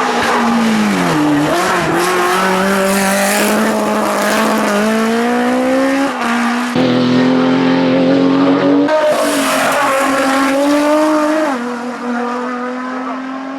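Hill-climb race car, an MG, running hard on the course: its engine note climbs and falls with throttle and gear changes, with sudden pitch drops and jumps several times.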